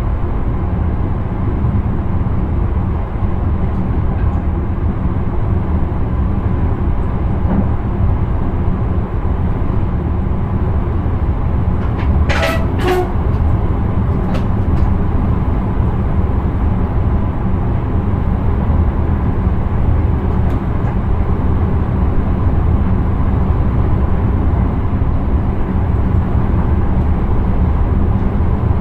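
Steady low rumble of an electric intercity train running on the line, heard inside the driver's cab. Two short sharp clicks come about twelve and a half seconds in.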